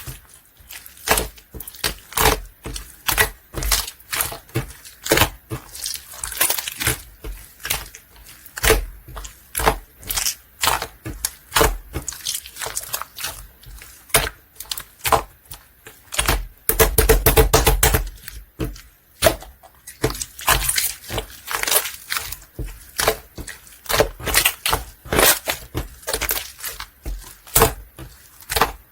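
Clear slime being squished and stretched by hand, giving irregular wet clicks and crackling pops, with a louder run of dense popping about two-thirds of the way through.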